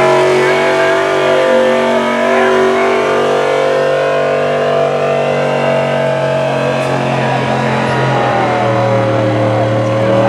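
A competition pulling truck's engine running flat out under heavy load, holding a steady high pitch that sags slightly near the end.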